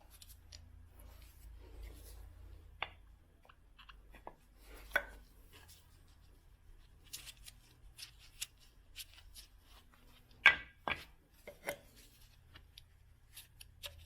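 Hand tools clicking and knocking irregularly during the engine mount work, loudest as two sharp knocks about ten and a half seconds in, over a faint low hum.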